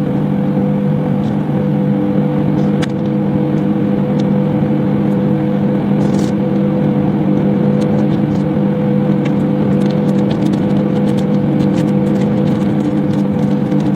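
Microwave oven running with a steady electrical hum, with scattered faint clicks.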